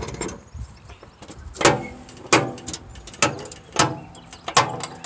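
Hand winch on a lawn tractor's crane arm being cranked to lift: five sharp metallic clacks, starting about a second and a half in and coming roughly every three quarters of a second.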